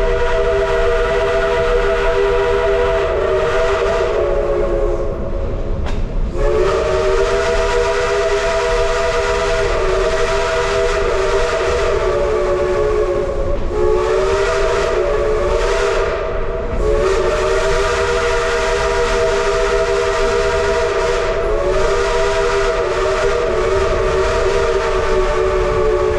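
Steam locomotive chime whistle blowing, several notes sounding together in long held blasts that dip briefly a few times, with hissing steam underneath.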